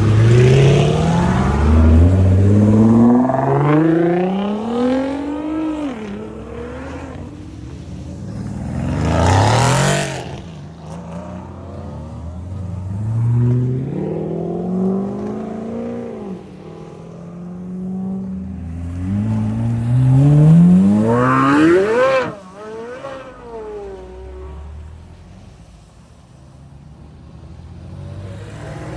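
Cars accelerating hard one after another, each engine revving up through the gears in rising steps with breaks at the shifts. The loudest pull, about two thirds of the way through, climbs steeply and then cuts off suddenly before the sound fades.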